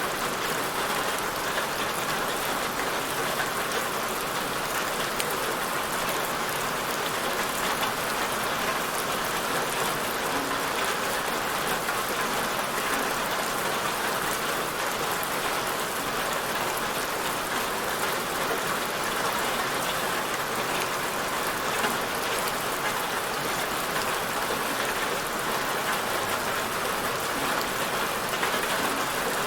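Steady rain falling on a surface, a dense even hiss of many small drops with no let-up.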